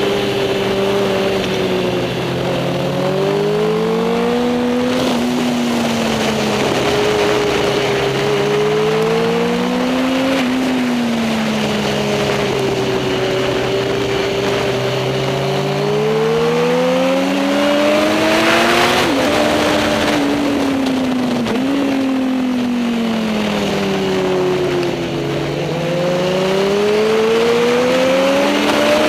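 Superbike engines running hard under racing load, their pitch climbing for several seconds at a time, dropping sharply at each gear change and falling away where they slow down.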